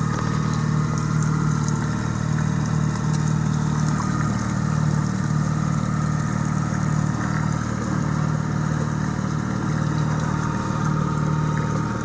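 Fishing boat's motor running steadily at slow trolling speed, a low even hum.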